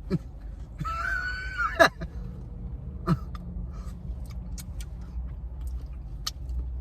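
Mouth sounds from eating chicken wings: a short, high-pitched squeal about a second in, quick falling squeaks, then scattered small clicks of chewing and lip smacks.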